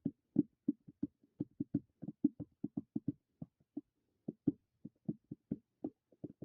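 A rapid, uneven run of short dull thumps, about five a second, with some strokes louder than others.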